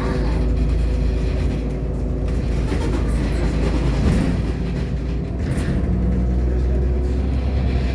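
Irisbus Agora L articulated city bus under way, its engine and running gear making a steady low drone that eases for a moment about halfway through.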